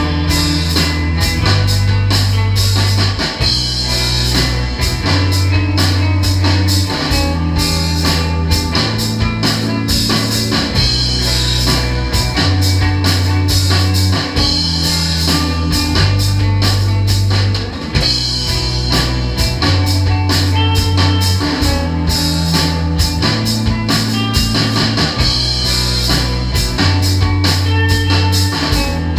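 A live rock band playing: guitar, bass and drum kit, with low bass notes held and changing about once a second under steady cymbal and drum hits.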